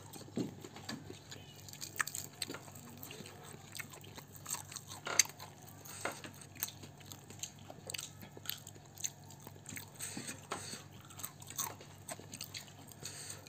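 Close-up eating sounds: soft, irregular chewing and crunching of fried catfish, with small clicks as fingers pick the fish apart on a plate.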